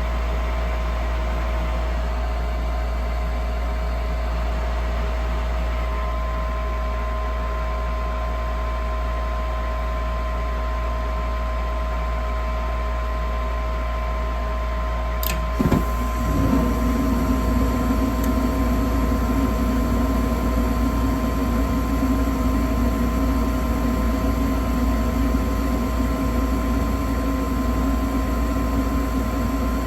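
Gas furnace starting up after a gas valve replacement: the inducer motor runs with a steady hum, then about halfway through there is a sharp click and the burners light, adding a low rushing rumble that carries on.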